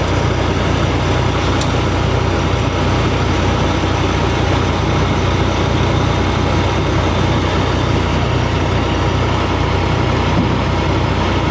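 Heavy truck engine idling steadily, a low even hum.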